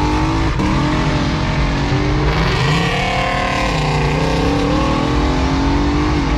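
Car engine heard from inside the cabin while the car accelerates, its note climbing, dropping back around the middle and climbing again.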